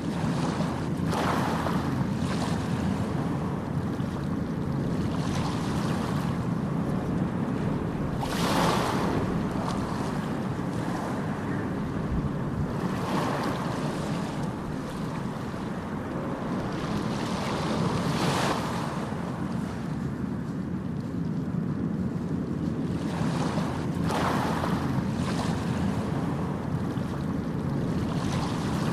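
Ocean surf: waves breaking one after another every few seconds over a steady low rumble of the sea.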